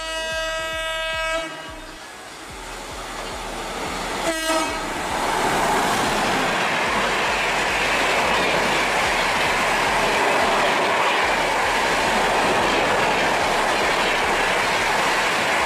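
Train horn sounding a long blast that stops about a second and a half in, a short second blast at about four seconds, then the steady loud noise of a fast train running past on the rails.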